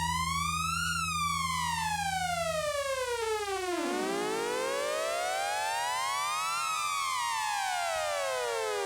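Synthesizer tone gliding slowly up and down in pitch like a siren, each rise or fall taking about three seconds. A low held drone underneath cuts off about two and a half seconds in, and a second, echoing copy of the glide trails the first.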